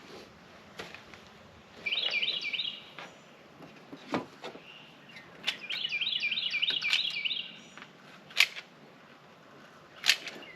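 Sharp single shots of a pneumatic wide crown stapler driving staples, a few seconds apart, nailing the camper roof's wooden stringers. A bird sings in two bursts of rapid repeated chirps, one about two seconds in and a longer one near the middle.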